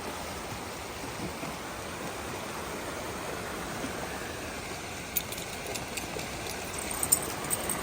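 Swollen river rushing steadily, running high and fast after heavy rain. A few short sharp clicks come through over it in the last few seconds.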